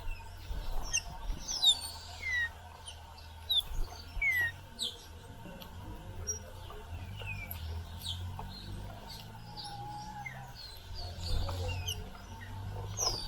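Several small wild birds chirping at once: many short, quick, mostly falling chirps, scattered and overlapping throughout.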